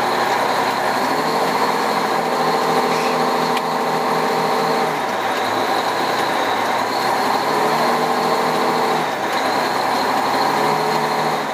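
A fire engine's engine idling in drive while the truck is hauled by hand, heard from inside the cab. A pitched drone in the engine note comes in for a few seconds and fades, twice.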